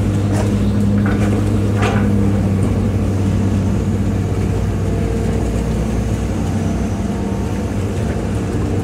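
Hitachi EX200-5 excavator's diesel engine running steadily, with a few short knocks in the first two seconds.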